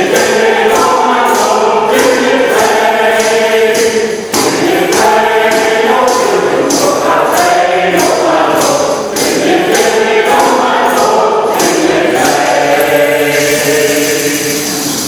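A choir of mixed voices singing a hymn-like tune in held notes, with a steady beat of short taps about twice a second.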